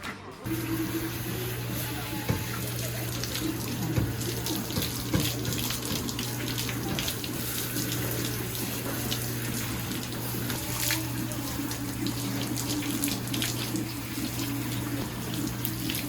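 Water running steadily with a continuous even hiss, with a steady low hum underneath.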